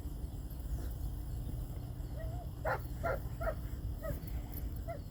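A puppy gives a short whine about two seconds in, then a run of about five sharp, high barks. A steady low rumble runs underneath.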